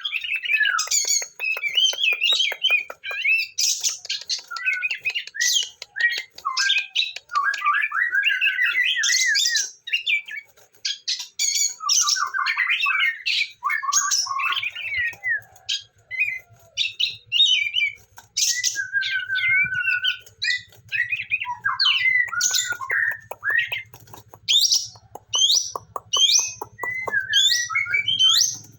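A songbird singing a long, varied song of rapid chirps, trills and harsh squawky notes, with only brief pauses.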